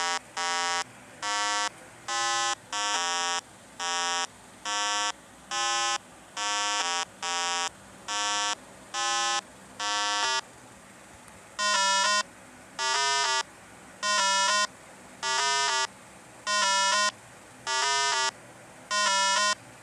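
Electronic beeping: a buzzy synthesized tone pulses about one and a half times a second, then, after a short gap about halfway through, gives way to a lower, louder tone in slightly longer, slower beeps.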